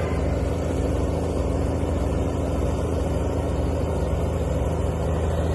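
Heavy truck engine running steadily at a constant low pitch while a tow truck pulls a stuck, heavily loaded truck with its cables.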